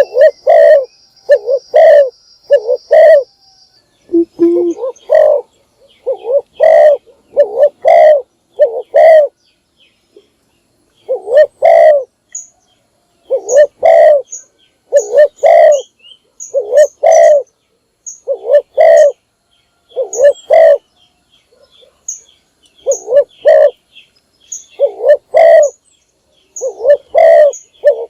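Spotted dove cooing over and over in short phrases of two to four low notes, with pauses of a second or more between phrases, the kind of call kept to lure wild doves. Faint high chirps from another small bird come in now and then after about twelve seconds.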